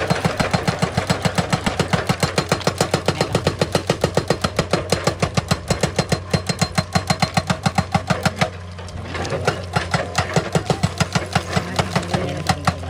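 Excavator-mounted hydraulic rock breaker hammering rapidly, about six blows a second, over the steady running of the excavator's engine. The hammering stops for about a second past the middle, then starts again.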